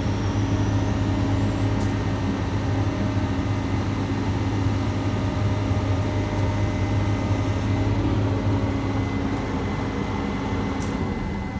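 A diesel engine of heavy equipment running steadily at an even speed, with a constant low hum.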